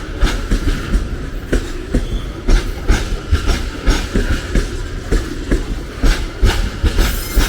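A train running past at close range: a steady low rumble of wheels on rail, with a wheel clack over the rail joints about twice a second.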